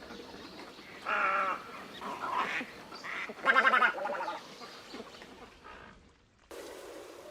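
A bird calling: two loud drawn-out calls about a second and three and a half seconds in, with quieter calls between them. The background changes abruptly near the end.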